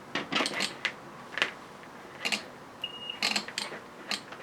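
A string of sharp clicks and light clattering from test-lead clips being connected to a small automotive relay, which is switched by applying battery voltage across its coil. A single short high beep sounds near the middle.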